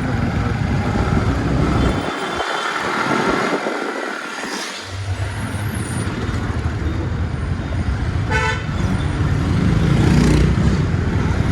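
Wind rumbling over a motorcycle-mounted phone's microphone while riding in traffic, easing briefly a couple of seconds in. A vehicle horn honks once, short, about eight seconds in.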